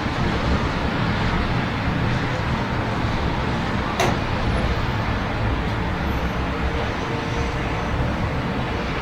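Steady city traffic rumble under the hiss of falling rain, with a single sharp click about four seconds in.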